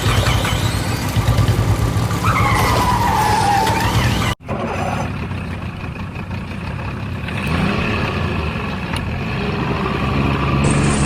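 A steady engine drone, with a falling whine about two to four seconds in and an abrupt cut about four and a half seconds in, after which the drone carries on.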